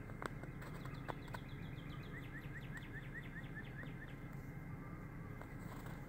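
A bird giving a quick run of short, rising chirps, about five a second, for roughly three seconds, over a steady low rumble.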